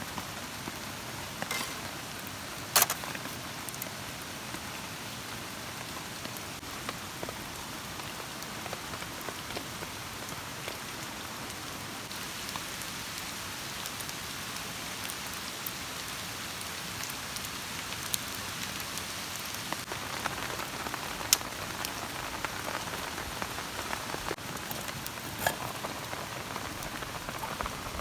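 Steady rain falling, with scattered sharp ticks of single drops, the loudest about 3 seconds in and again about 21 seconds in.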